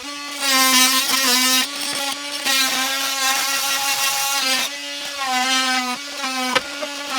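Electric power saw cutting into the plywood subfloor, its motor running with a steady high whine that dips briefly several times as the blade bites. The blade may be meeting a nail in the cut.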